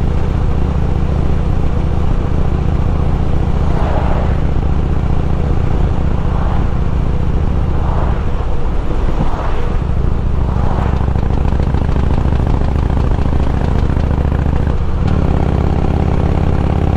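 Harley-Davidson Road King's V-twin engine and exhaust running steadily at road speed, with wind noise over it. The engine note dips briefly around eight to nine seconds in and changes again near the end.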